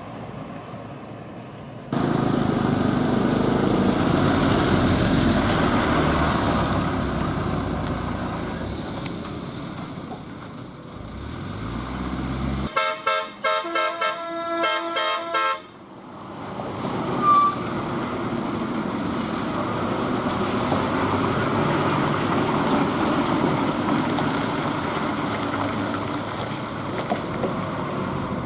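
Eicher lorry's diesel engine running with road noise as the truck drives by. About halfway through, a horn sounds in a quick run of short, repeated, multi-tone notes lasting a few seconds, then the engine noise carries on steadily.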